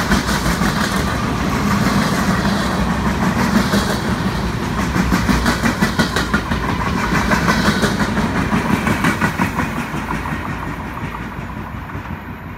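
Empty railroad flatcars rolling past, their steel wheels running over the rail joints in a quick regular rhythm; the sound fades steadily over the last few seconds as the end of the train moves away.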